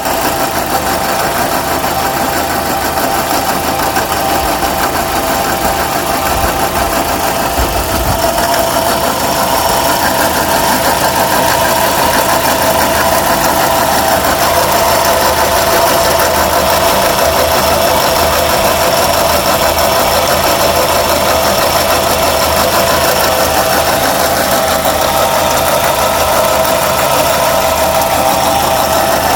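2006 Suzuki Forenza's four-cylinder engine running steadily with a constant pitched note over its sound, an abnormal noise the owner takes for a sign that the engine isn't healthy.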